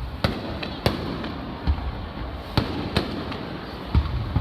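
Aerial fireworks shells bursting overhead: about six sharp bangs at irregular intervals, the strongest about a second in and near three seconds, over a steady rumble and hiss.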